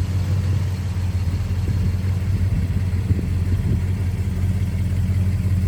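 1969 Dodge Coronet R/T's 440 Magnum V8 idling steadily with a deep, even exhaust note.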